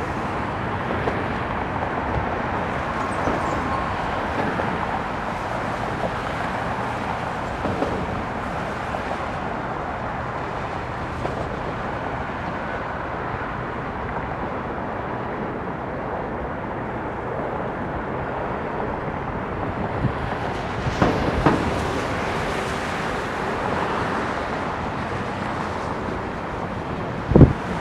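Steady rushing roar of a Bombardier CRJ-900 regional jet's rear-mounted turbofans on its landing approach, heard in the open air with traffic-like background noise, with a faint whine in the first few seconds. A few light knocks about two-thirds of the way through and one sharp thump near the end.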